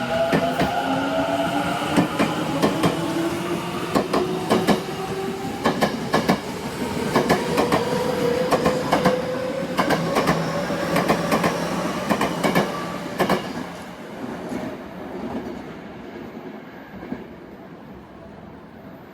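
Electric local train accelerating away: its motor whine rises steadily in pitch while the wheels clack over rail joints, then fades out after about 14 seconds as it leaves.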